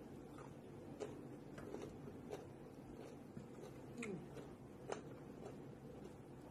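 Faint mouth sounds of a person chewing green papaya salad: a few sharp wet clicks and smacks, with a short falling hum about four seconds in.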